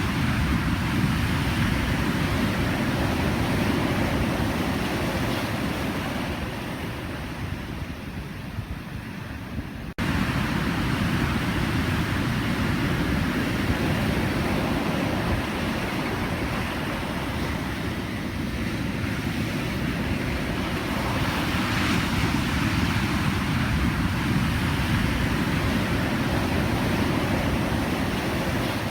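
Pacific Ocean surf: a continuous wash of breaking waves. It eases off between about six and ten seconds in, then comes back suddenly at full strength.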